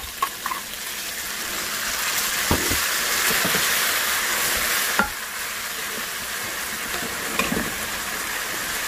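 Pork belly and leek frying in a pan, sizzling harder as the premixed seasoning of sake, soy sauce and sugar hits the hot pan, while the spatula stirs. The sizzle swells over the first few seconds and then settles, with a few sharp knocks of the utensil against the pan, the clearest about five seconds in.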